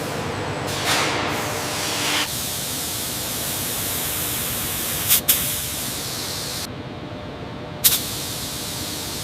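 Steady spraying hiss, like compressed air or a spray gun, with a louder surge about a second in and a few short sharp clicks later on.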